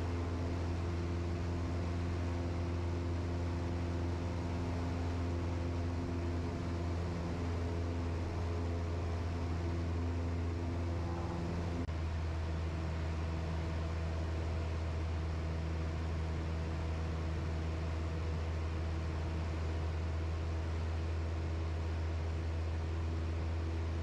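Cessna 172's piston engine and propeller droning steadily in flight, heard from inside the cabin; the engine note shifts slightly about halfway through.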